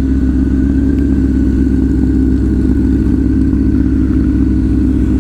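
Motorcycle engine idling steadily at an even, unchanging pitch.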